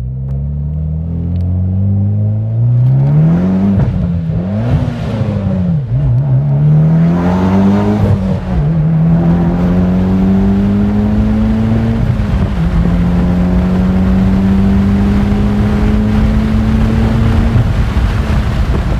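Tuned Mitsubishi Lancer Evolution X's turbocharged 2.0-litre four-cylinder engine, heard from inside the cabin as the car accelerates. Its note climbs and drops several times in the first eight seconds, as through gear changes, then rises slowly and steadily under load before the revs fall off near the end.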